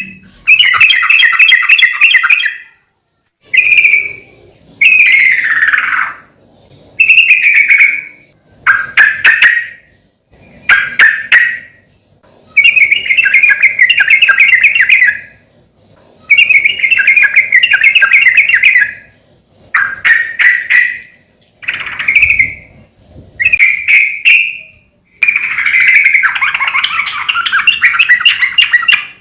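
Yellow-vented bulbul (trucukan) singing loudly: about a dozen quick, bubbly, chattering phrases, each a second or two long, with short pauses between them.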